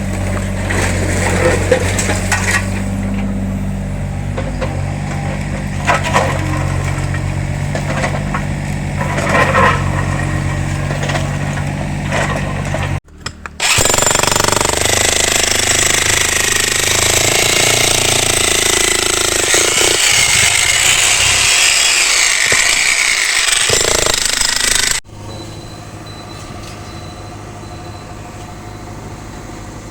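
Demolition work on a house. A machine's engine runs steadily with scattered knocks and cracks of breaking material. About 13 seconds in, after an abrupt cut, a loud, even, harsh din of breaking takes over. About 25 seconds in, after another cut, a quieter engine hum remains.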